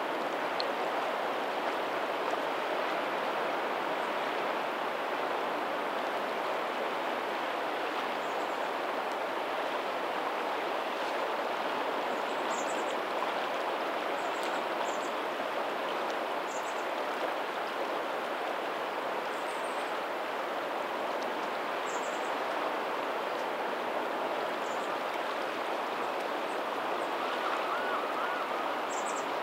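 Steady babble of a lagoon's tidal outflow running over a pebbly shore, with faint ocean waves behind it. A few faint, brief high chirps come now and then.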